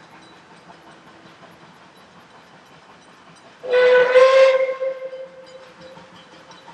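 Puffing Billy steam locomotive's whistle giving one blast nearly four seconds in: it starts suddenly, holds loud for about a second, then dies away over the next two seconds.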